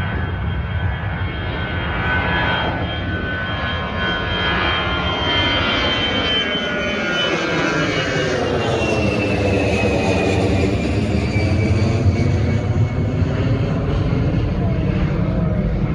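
Jet airliner passing overhead as it climbs out after takeoff, its engine whine sliding down in pitch as it goes by, growing louder toward the middle.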